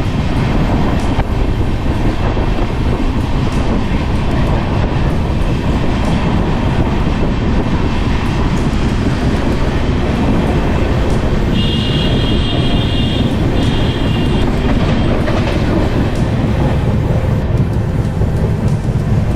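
Passenger train running along the track, a steady rumble with wheel clatter on the rails. A short high tone sounds twice about twelve seconds in.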